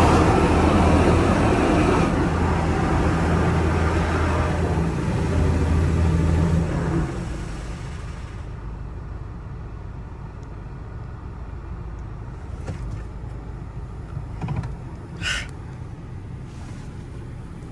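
Touchless in-bay automatic car wash running: a loud rushing spray with a steady low hum, which drops away about seven seconds in and leaves a quieter hum with a few faint clicks.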